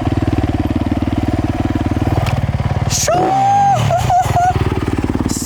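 Motocross dirt bike engine running hard. About three seconds in, its pitch drops away, with a high wavering tone over it for a second or so, then the engine picks up again.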